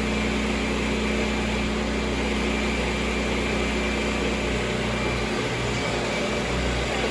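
Kirby G4 upright vacuum cleaner running steadily, a constant motor hum with airflow hiss.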